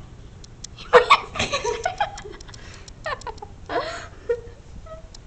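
People laughing in two bursts, about a second in and again around three to four seconds, over faint, short, high cheeps from nestling birds.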